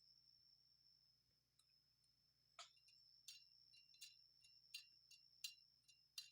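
Near silence with faint, light clicks, about one every 0.7 seconds through the second half, over a faint steady high whine.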